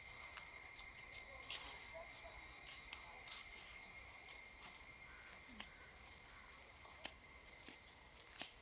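Steady, shrill chorus of insects: a continuous high-pitched drone, with scattered faint ticks, fading slightly toward the end.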